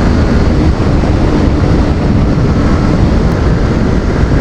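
Wind rushing over the rider's microphone, with the Yamaha R15 V3's single-cylinder engine running underneath at a steady cruise.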